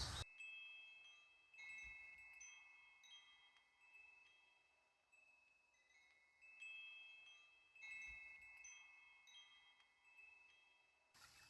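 Faint metal chimes ringing: a few clear high notes sound together about a second and a half in, again about six and a half and eight seconds in, each cluster left to ring on and fade slowly.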